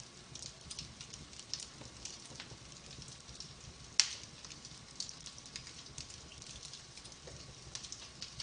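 Wood fire in a fireplace crackling, with irregular small snaps over a soft hiss and one loud pop about halfway through.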